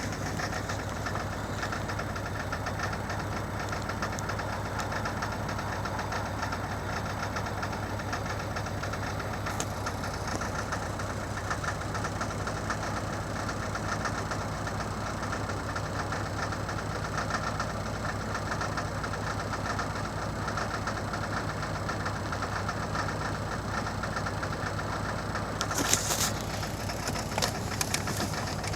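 2000 Saturn SL2's 1.9-litre four-cylinder engine idling roughly with a misfire, the miss the owner has not cured by replacing the plug wires and the number one spark plug; he suspects the remaining plugs or the coil packs. A few sharp clicks sound near the end.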